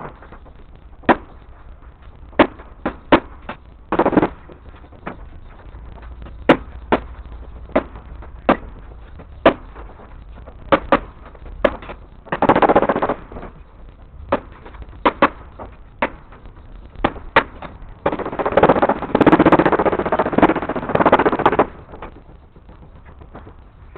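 Construction work fastening the chicken-wire mesh and tin: sharp tool knocks at an irregular pace of about one a second, with two longer noisy bursts, a short one about twelve seconds in and a longer one from about eighteen to twenty-one seconds.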